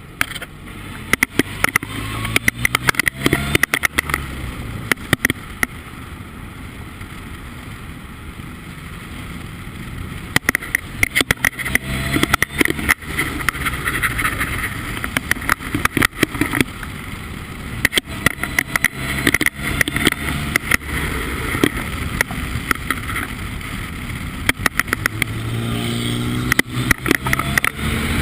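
Formula Ford race car engine running under way, with many sharp crackles and knocks over it throughout; the engine's pitch rises near the end as it accelerates.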